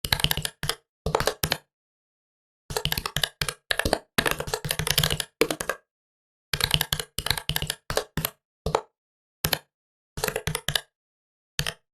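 Typing on a computer keyboard: quick runs of keystrokes broken by short pauses, with a few single key presses near the end. The gaps between runs are completely silent.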